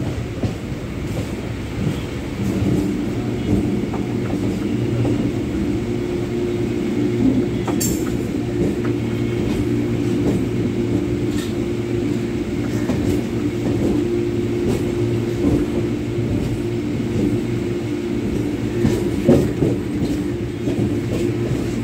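Electric multiple-unit suburban train running along the line, heard from its open doorway: a steady rumble of wheels on rails with a constant hum, scattered clicks over the rail joints, and one sharper click about eight seconds in.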